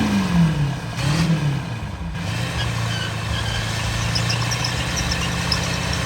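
Truck engine revving, its pitch falling off at the start and blipping up and down once more, then settling into a steady idle about two seconds in.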